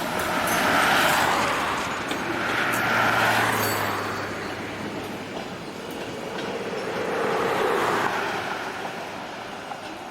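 Iowa Traction Railway freight train rolling along the rails behind electric steeple cab locomotives: a steady rush of wheel and rail noise that swells and fades three times, about a second in, around three seconds and near eight seconds.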